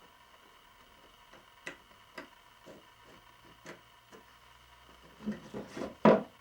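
Scattered light taps and clicks of hand tools and wood being handled, then a quick flurry of knocks about five seconds in ending in one loud, sharp knock near the end.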